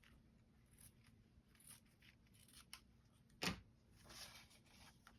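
Faint snips and clicks of scissors cutting fabric and paper, with one sharper click about three and a half seconds in and a brief rustle just after it.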